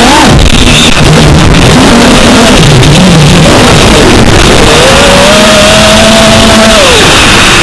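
FPV quadcopter motors whining under wind rush, the pitch rising and falling with throttle and holding steady for a couple of seconds before dropping near the end. Very loud.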